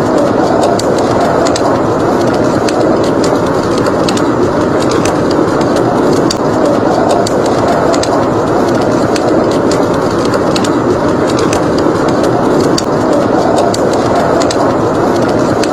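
Steady blizzard wind blowing, with a wood fire crackling over it in many small, sharp pops.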